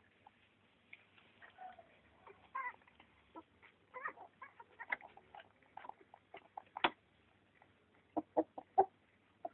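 Short, irregular animal calls and squeaks, scattered and overlapping, with a few louder, sharp calls about eight seconds in.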